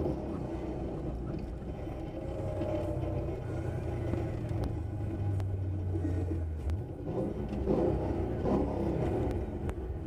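Ford Mustang engine heard from inside the cabin under load on an autocross course, holding a steady low note, then dropping off and turning uneven about two-thirds of the way through as the driver comes off the throttle.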